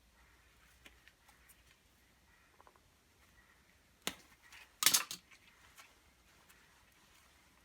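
Handling of small hard parts during hand work on a hammer drill: scattered faint ticks, one sharp click about four seconds in, then a brief clatter of several loud clicks about a second later.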